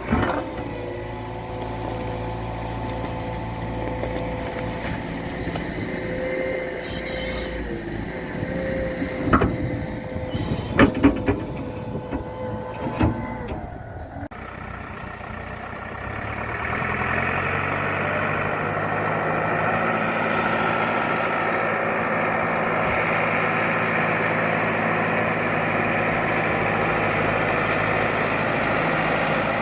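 Valmet 705 tractor's diesel engine running steadily, with a few sharp knocks and clanks about ten seconds in. About halfway through, the engine revs up and carries on at higher, louder revs.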